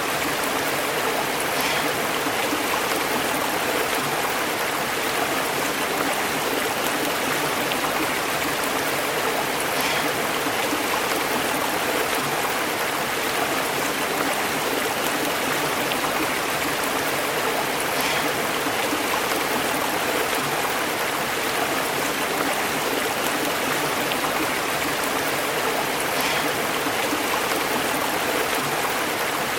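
A stream burbling over rocks: a steady, unbroken rush of flowing water.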